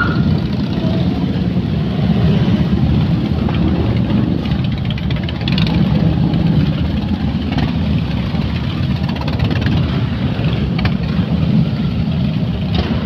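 Several Harley-Davidson motorcycle engines running together, a steady low sound that swells slightly now and then, with faint voices underneath.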